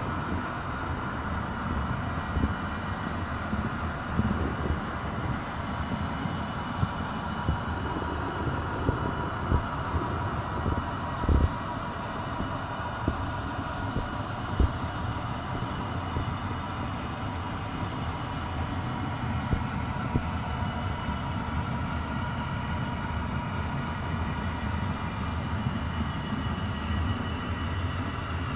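A train running on the rails: a steady rumble with a few faint steady tones over it, and irregular sharp knocks and clunks, the loudest about eleven and fourteen and a half seconds in.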